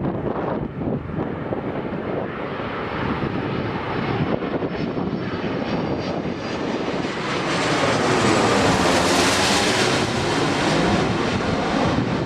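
Airbus A330-300 airliner's jet engines on landing approach, passing close by. The sound grows louder to a peak about eight to ten seconds in, with a sweeping whoosh, then eases off.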